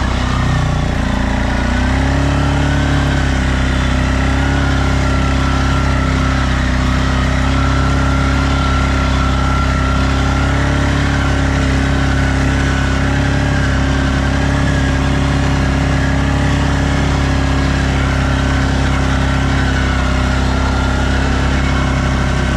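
Stels Leopard 650 ATV engine running steadily under heavy load while it pushes through deep snow in four-wheel drive. The revs climb over the first two seconds and then hold, with a wavering higher whine above the engine note.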